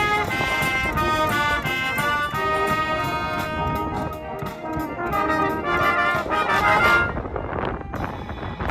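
Wind band playing with trumpets and trombones to the fore; the music stops abruptly about seven seconds in, leaving a rougher noise.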